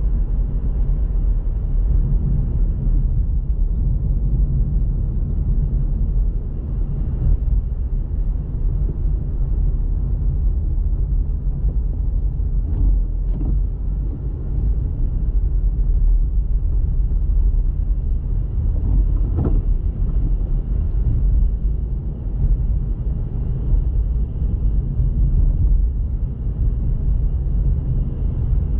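Steady low rumble of a car driving: engine and tyre noise from the moving vehicle, with a few faint brief sounds near the middle.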